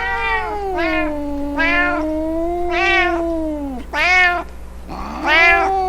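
An animal calling: one long, wavering, drawn-out call that dips down and breaks off about four seconds in, then a second, shorter call near the end.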